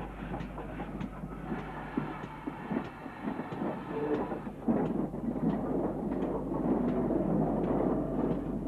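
Steam train running on the rails, with a regular run of wheel clicks over rail joints. It gets noticeably louder and fuller about halfway through.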